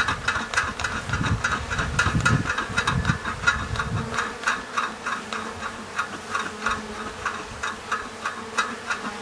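Honeybee colony in an opened top-bar hive buzzing steadily, agitated and louder than usual, with rapid irregular ticking running through it. A low rumble sits under the buzz for about the first four seconds, then drops away.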